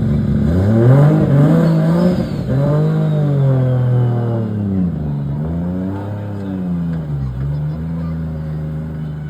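A car engine accelerating hard, its pitch climbing steeply, then dropping and climbing again about three times as it changes gear, and fading as it pulls away.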